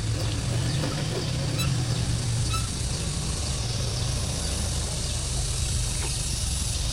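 An engine running steadily with a low, even rumble and a hiss above it.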